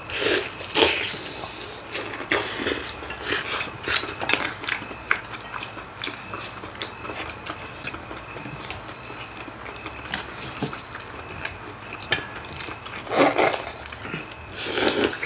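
Close-miked eating: wet chewing and gnawing as braised beef short-rib meat is bitten off the bone, with chopsticks and spoons clicking on bowls. A few louder bursts stand out about half a second in, around two and a half seconds in, and near the end.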